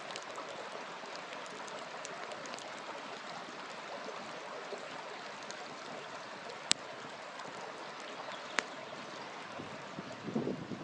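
River water rushing steadily, with a wood fire crackling: faint small ticks throughout and two sharp pops, one about two-thirds of the way in and another a couple of seconds later. Near the end a low, uneven fluttering rumble comes in.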